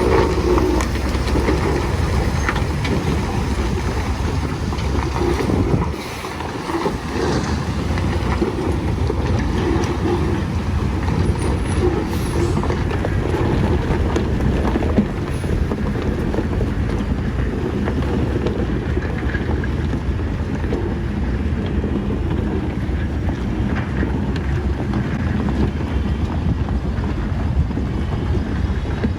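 Heavy Tata tipper truck's diesel engine running steadily, with a brief drop in level about six seconds in.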